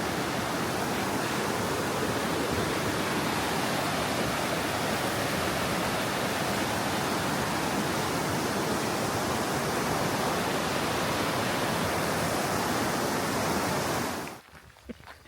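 River rushing beneath a suspension bridge, a steady, even rush of water that cuts off suddenly near the end.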